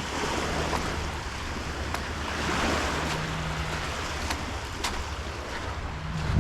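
Small waves washing onto a sandy beach, with a surge about two and a half seconds in, and wind buffeting the microphone.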